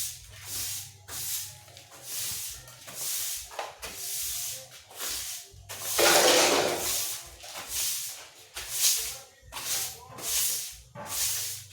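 Broom sweeping a floor: a steady run of short swishing strokes, about two a second, with one longer, harder sweep about six seconds in.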